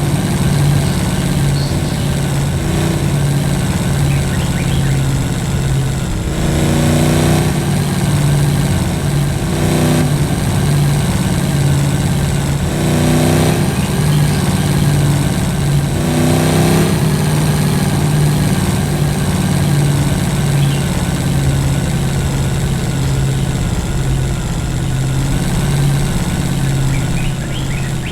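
Vehicle engine running steadily with no break, rising in revs briefly several times, roughly every three to four seconds in the first part.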